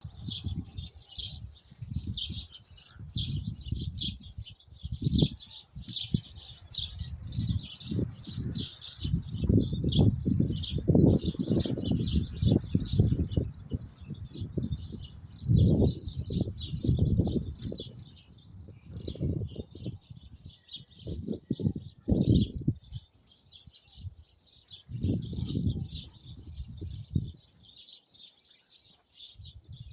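A flock of small birds chirping continuously in a dense, rapid chatter, with irregular gusts of wind rumbling low on the microphone, strongest in the middle.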